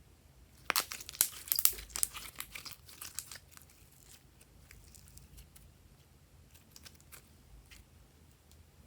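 Crinkling, crackling handling noise: a dense run of sharp crackles starting about a second in, thinning to scattered clicks after about three seconds.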